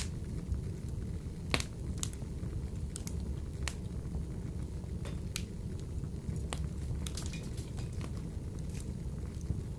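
Wood fire burning in a wood-burning stove, with irregular sharp pops and crackles over a low steady rumble.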